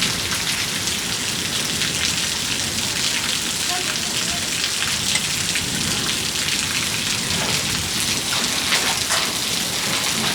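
Steady rain falling hard, a constant hiss of water broken by many small drop ticks.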